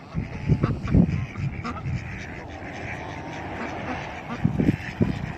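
A group of ducks quacking and honking, with bunches of louder calls about half a second to a second in and again near the end.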